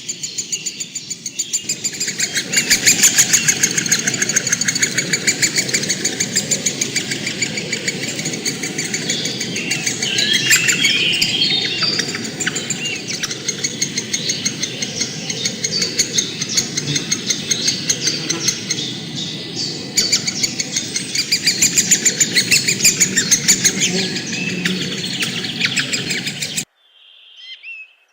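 A dense chorus of many birds chirping and chattering in fast, repeated notes. It cuts off abruptly near the end, after which a few short separate calls follow.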